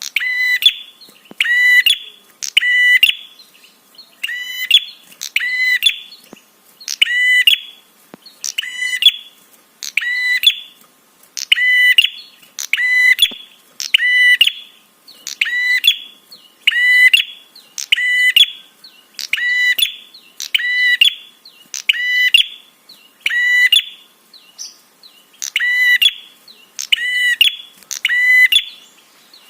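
Prinia (prenjak) calling, a lure recording: one short, high call repeated evenly about once a second.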